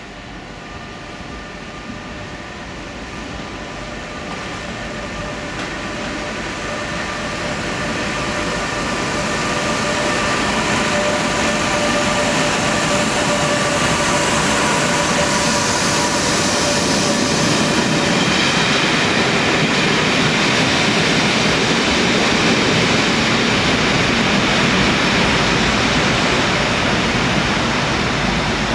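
Class 87 electric locomotive hauling Caledonian Sleeper coaches, growing louder as it approaches and passes close by. Its whine of steady tones fades after about eighteen seconds, leaving the loud rushing of the coaches running past.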